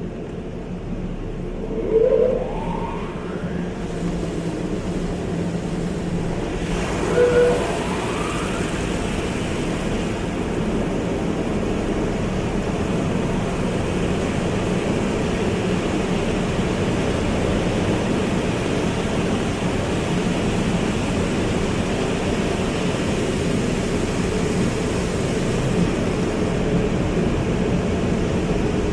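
Car wash running: a steady rush of water spray over a low machinery hum, with two short rising whines, about two seconds in and about seven seconds in.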